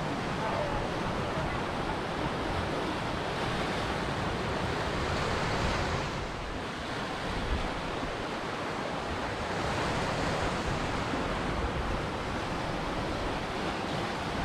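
Ocean surf: waves breaking and washing ashore in a steady rush that swells and eases.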